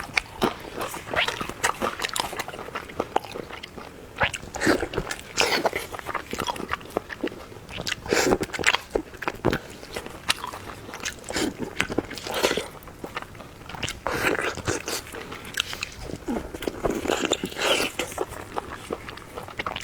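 Close-miked eating: biting and chewing food, with many short, irregular wet mouth clicks.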